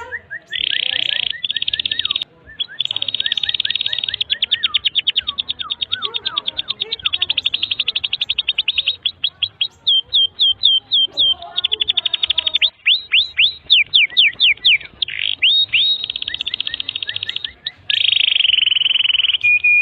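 Domestic canary singing a long, unbroken song of very fast trills. In the middle the trills give way to slower, sweeping notes.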